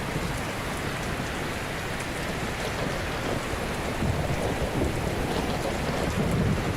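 Ocean surf: waves breaking and washing on a shore in a steady rush, with a deeper surge of a wave building about halfway through.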